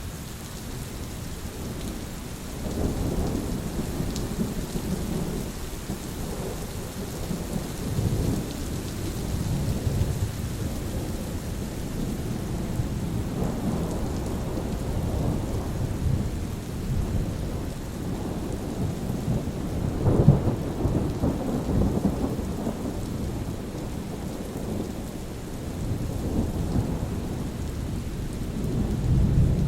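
Steady rain with rolling thunder: a constant hiss of falling rain under low rumbles that swell and fade again and again, the strongest rumble about two-thirds of the way through.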